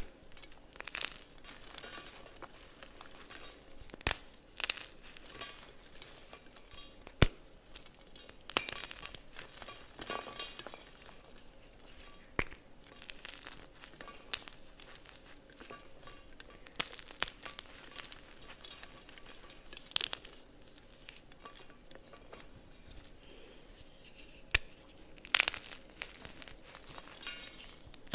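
Blocks of gym chalk crumbling with a crisp, crunchy sound, broken by a few sharp cracks as pieces snap.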